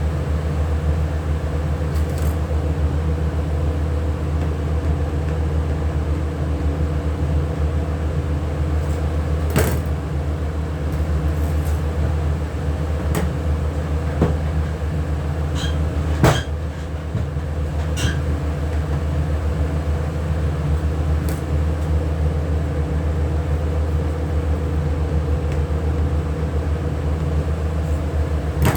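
A machine motor running steadily with a low hum, with occasional sharp clicks and knocks, the loudest about ten and sixteen seconds in.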